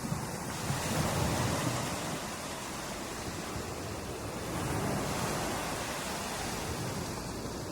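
Ocean waves breaking and washing on a beach, a steady rushing surf that swells about a second in and again around five seconds in.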